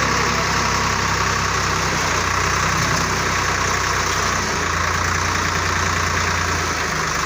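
Heavy diesel engine running steadily. Its low note shifts about four and a half seconds in and again shortly before the end.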